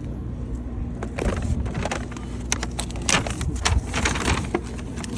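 A run of crackling and clicking handling noises over a steady low hum.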